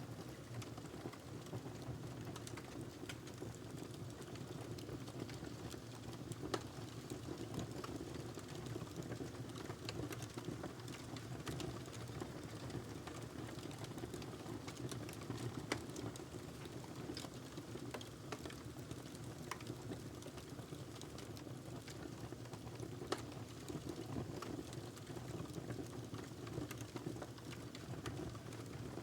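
Wood fire burning in a fireplace: a steady low rustle of flames with many small crackles and a few louder pops, about three times.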